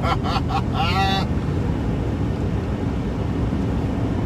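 Steady road and engine noise heard inside a moving car's cabin, an even low rumble; a person's voice finishes talking about a second in.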